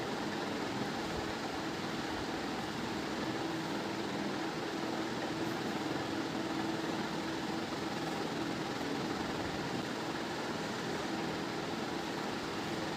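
Steady whirring of an electric motor appliance, an even rush of noise with a low hum underneath.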